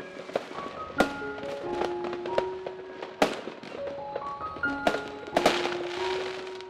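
Fireworks going off: about five sharp bangs, each trailed by crackling, over background music with a stepping melody.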